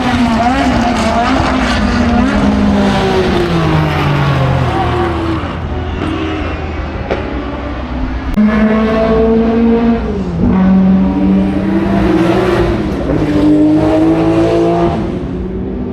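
Historic racing cars' engines under hard acceleration, several at once. Their pitch climbs through each gear and drops sharply at the shifts and on lifting off.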